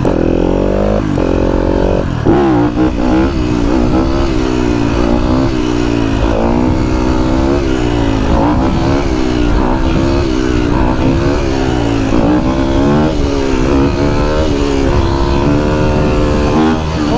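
A 125cc two-stroke dirt bike engine revving. Its pitch climbs over the first two seconds, then swings up and down about once a second as the throttle is rolled on and off.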